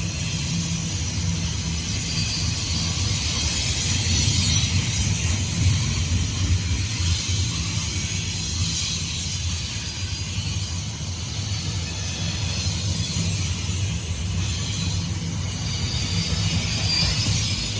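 Intermodal freight cars rolling past on the rails: a steady low rumble of wheels on track, with continuous metallic rattling and clanking from the cars.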